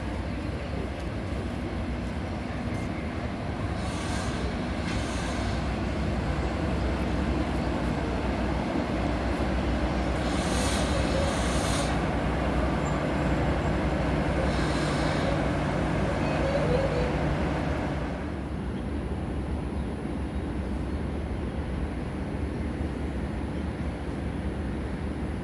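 Diesel train running through the station with a steady low engine hum and rail noise, growing louder for a while, then dropping off suddenly about eighteen seconds in.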